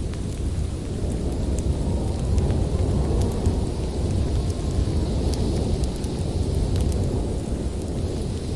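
Storm wind making a steady deep rumble, with scattered sharp crackles from a wood fire over it.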